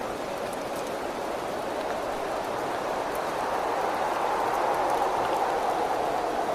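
Steady rain with wind whistling past a window: a hollow, whistling band of wind that swells and rises slightly in pitch around the middle, over an even rain hiss with faint scattered drop ticks.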